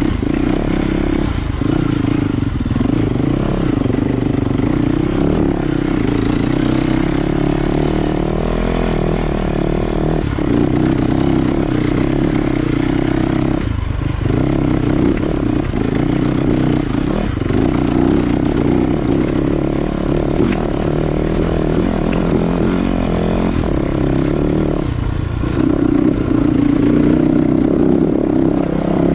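Enduro dirt bike engine running hard under changing throttle, the note dipping briefly several times as the throttle is eased off and then picking up again.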